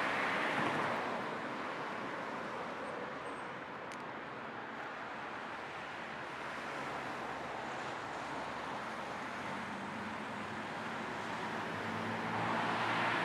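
Steady road and tyre noise of a moving car with a faint engine hum, mixed with low white noise; the hiss swells a little near the start and again near the end.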